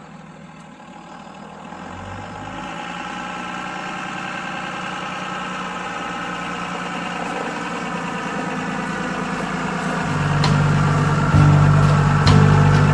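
An engine idling at a steady pitch, growing gradually louder, with a heavier low rumble joining in near the end.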